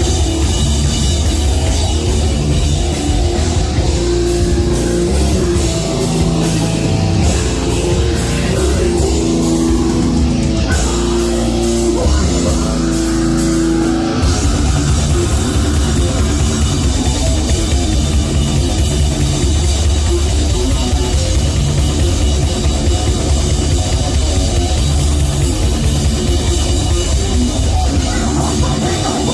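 Live heavy metal band playing loudly: distorted guitars, bass and drum kit. The low end thins to held guitar notes for a few seconds, then the full band comes back in about halfway through.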